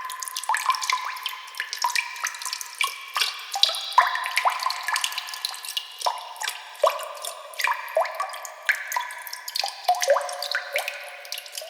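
Water dripping: many single drops plinking at irregular intervals, several a second, each a short pitched blip at a different pitch.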